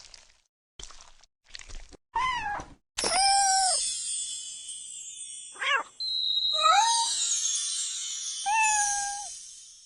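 A cat meowing about five times, some calls short and one longer, after a few short clicks at the start.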